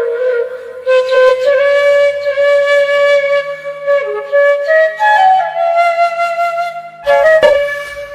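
Background music: a flute playing a slow melody of long held notes with small slides between them, over a faint low drone.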